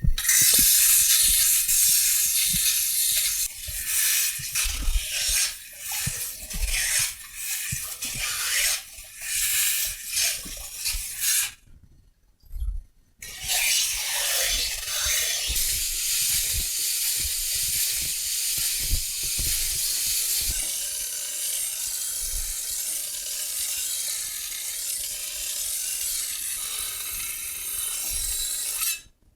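Metal being ground on a stone grinding wheel: a hissing, scraping grind that comes in short strokes for about eleven seconds, stops briefly, then goes on steadily.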